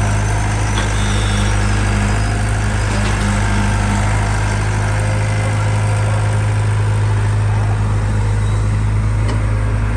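Diesel engine idling steadily with a low, even hum and no revving.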